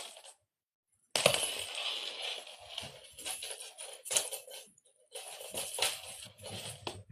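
A cat toy rattling and jingling in irregular bursts as it is batted about, with a short silent break about a second in.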